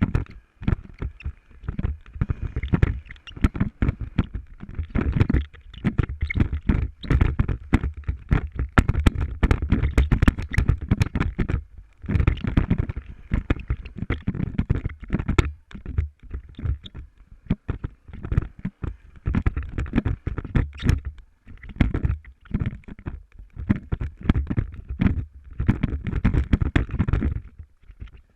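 Irregular low rumble with many sharp knocks and rattles on the microphone, typical of a camera carried on a motorcycle riding over a rough track; the rumble briefly drops out a few times.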